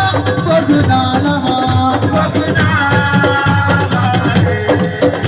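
Senegalese assiko band music playing loudly: dense, fast percussion under held melodic notes.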